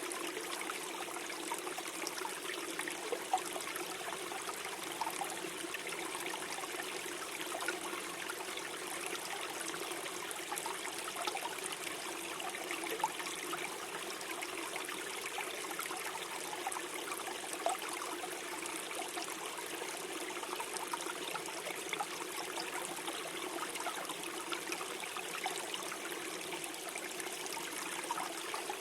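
Small stream flowing and gurgling steadily over stones in a forest.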